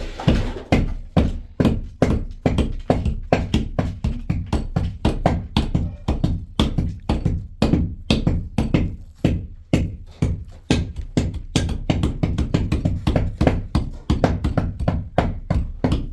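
Rapid, fairly irregular knocking, about four or five sharp strikes a second, starting suddenly and running on steadily.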